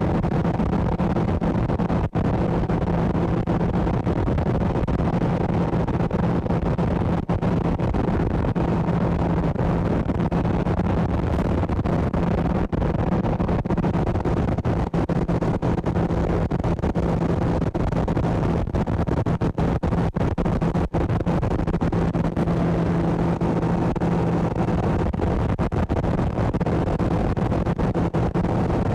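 Boat motor running steadily at speed: a constant low hum over a rushing noise that does not change.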